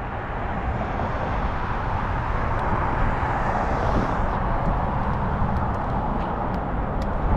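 Steady rush of wind on the microphone with tyre noise from a 20-inch fat-tyre folding e-bike rolling along a road, with a few faint ticks.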